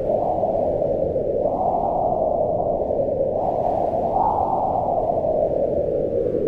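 Wind blowing steadily, mostly low in pitch, swelling a little higher in gusts about one and a half and four seconds in.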